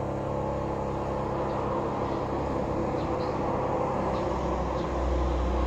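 A car engine running, slowly growing louder, with its low hum strongest near the end.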